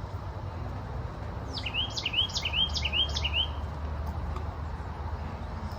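A songbird singing a quick run of about five repeated notes, each sweeping down and then hooking back up, starting about a second and a half in. A steady low background rumble runs underneath.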